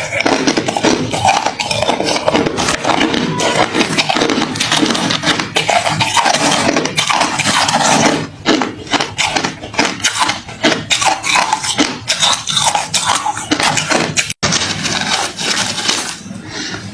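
Close-up crunching of hard, refrozen crushed ice being chewed: a dense, continuous run of sharp cracks and crunches, with a momentary break about fourteen seconds in.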